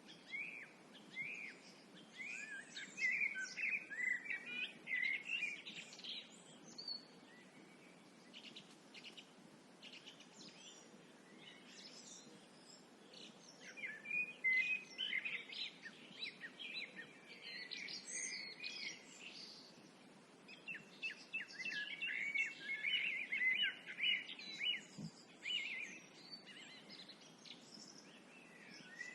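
Songbirds singing: bursts of quick chirping and warbling phrases, broken by pauses of several seconds, over a faint steady background noise.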